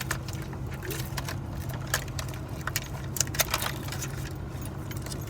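Small items being handled, with scattered light clicks and rattles, over a steady low hum.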